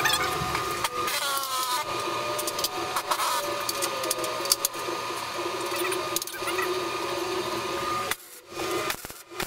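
Steady mechanical hum from workshop machinery, with a few sharp knocks of steel parts as the welding-table frame is clamped.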